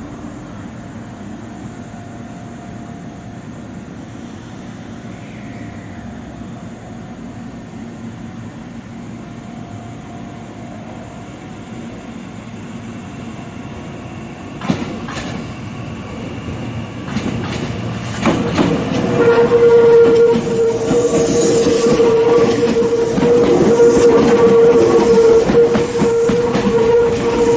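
Meitetsu 9500 series electric train running into the station and passing close by: quiet at first, then about two thirds of the way in the running noise builds and the wheels clatter over the rail joints, with a steady whine held over it to the end.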